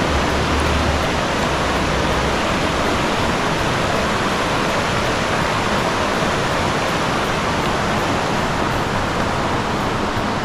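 River water rushing, a steady full noise with no breaks.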